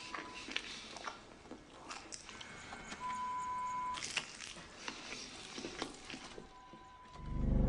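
Quiet film sound design: scattered small clicks and ticks, a steady electronic beep held for about a second in the middle with fainter ones near the start and end, and a deep low rumble swelling up near the end.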